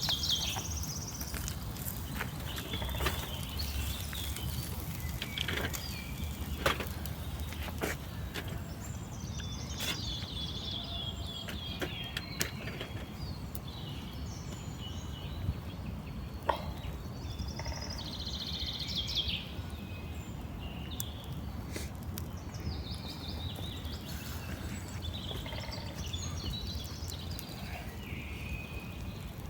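Birds chirping in short repeated phrases now and then over a steady low rumble, with a few scattered clicks.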